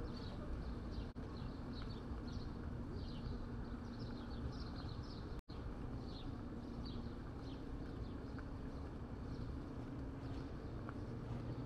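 Small birds chirping in quick, repeated short notes over a steady low rumble of city traffic and a faint steady hum. The sound cuts out for an instant about five seconds in.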